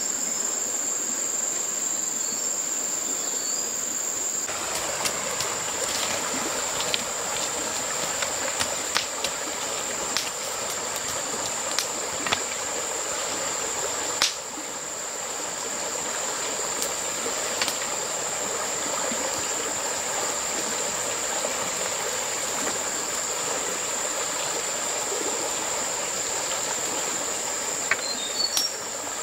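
Steady outdoor ambience: a constant high-pitched insect drone over an even rushing hiss like running water, with scattered sharp clicks and knocks, most of them between about 5 and 18 seconds in.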